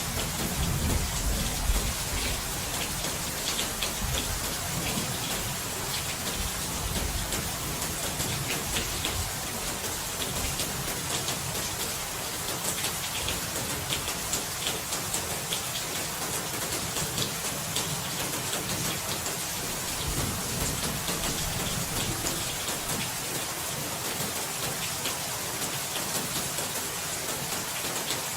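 Steady heavy rain, a dense hiss with many small drop patters, and a low rumble of thunder near the start.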